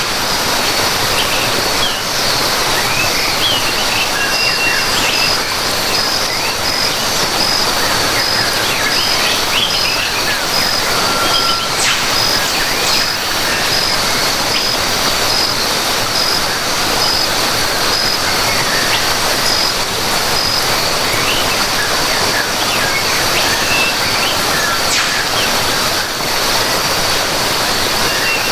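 Rainforest ambience: a steady rush of falling water under scattered bird chirps and calls, with an insect's high note pulsing about twice a second.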